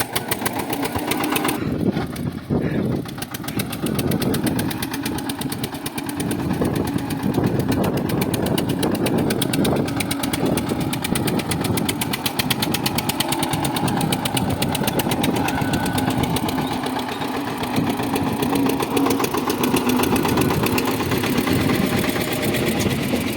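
Tractor engine running steadily, with a rapid, even beat throughout.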